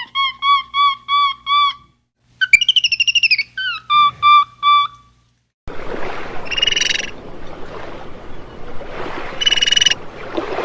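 Whistled bird calls: a run of about six even, repeated notes, then a short wavering trill and a few more repeated notes. After a brief gap comes a noisy stretch with two short buzzy calls.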